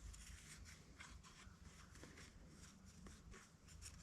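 Near silence: a faint low hum with a few soft, light handling noises.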